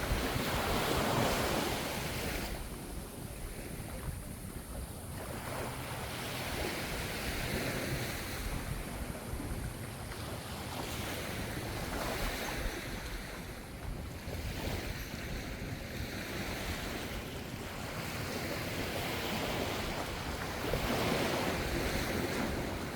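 Ocean waves breaking and washing up the shore, the surf swelling and easing every few seconds.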